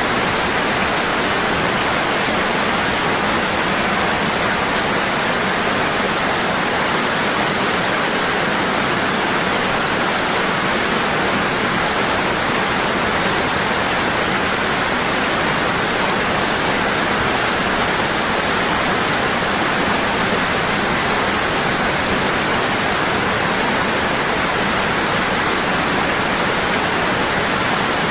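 Waterfall: water falling strong and constant, a steady, even rush with no change.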